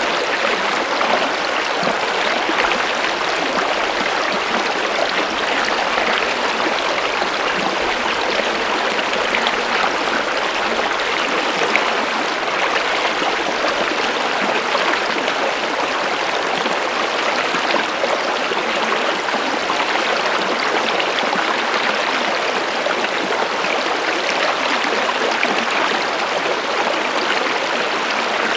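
Water flowing in a stream, a steady rushing and trickling over stones.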